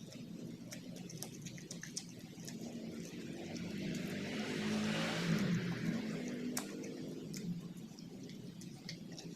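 Close-up eating sounds: scattered wet clicks of chewing and mouth noises, with a longer rushing, hissing swell about four to six seconds in.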